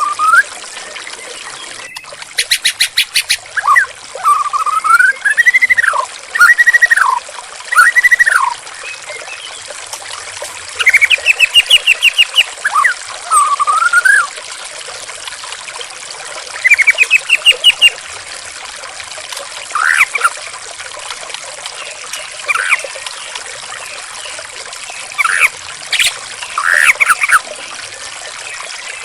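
Steady trickling water with a white-rumped shama singing over it in separate phrases of arching, gliding whistles and fast rattling trills, with pauses between phrases.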